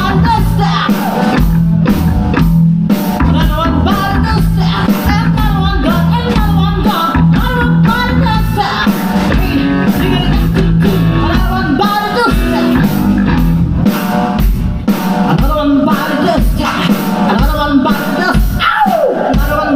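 Live rock band playing loudly: drum kit keeping a steady beat under electric guitar and bass, with singing over the top.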